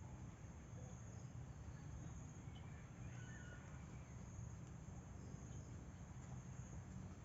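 Faint, steady high-pitched drone of crickets or other insects over a low rumble, with a few faint short chirps near the middle.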